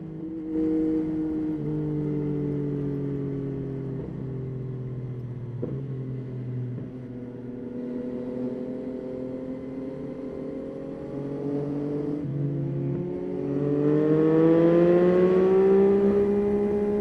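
Yamaha Tracer 9's three-cylinder engine running under way, its note slowly dropping through the first half, then rising and getting louder as it accelerates near the end before holding steady. Two short clicks are heard in the first half.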